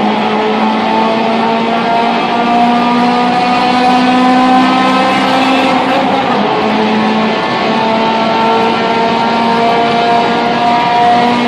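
Honda K20 inline-four engine held at high revs, running steadily, its pitch shifting slightly up and down with a brief dip about two-thirds of the way through.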